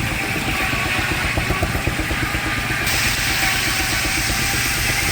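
Steam-driven circular sawmill blade cutting through a log, a loud high-pitched saw whine in the wood over the steady pulsing of the engine drive; the cut grows fuller about three seconds in.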